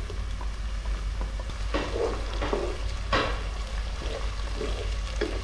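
Chopped tomatoes sizzling in hot ghee with browned onions, a wooden spatula stirring and scraping them through the pan in a few strokes about two to three seconds in. A steady low hum runs underneath.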